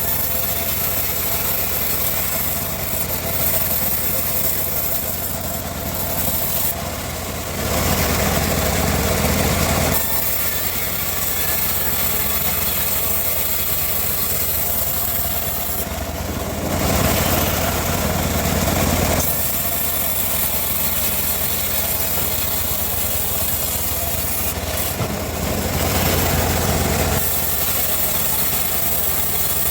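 Homemade bandsaw mill running steadily, with three spells of louder cutting noise of two to three seconds each as the blade saws through teak.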